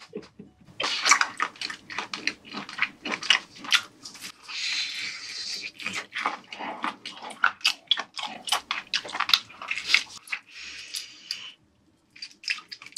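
Close-up wet chewing of boiled octopus tentacle: a run of sharp mouth clicks and smacks as the firm, chewy flesh is bitten and worked, with two short spells of hiss about four seconds in and near the end.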